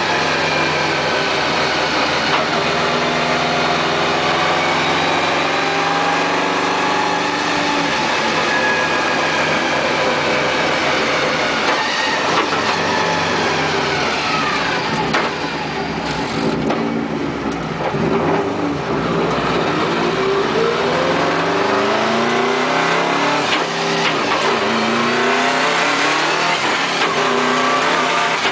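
Car engine heard from inside the cabin while driving. Its pitch climbs as it accelerates, falls away as the car slows around the middle, and climbs again near the end.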